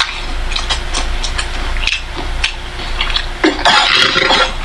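People chewing and biting into crispy fried chicken, with a scatter of short crunching clicks over a steady low hum, and a louder rustling burst about three and a half seconds in.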